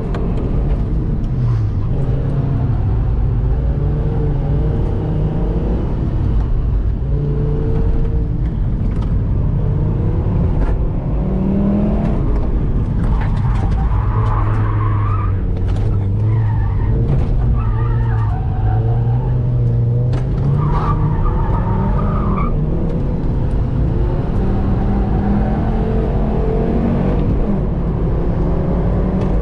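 Fiat Marea's 2.0 20-valve five-cylinder engine driven hard on a track, its pitch rising and falling as it accelerates and shifts. Tyres squeal through corners in the middle stretch.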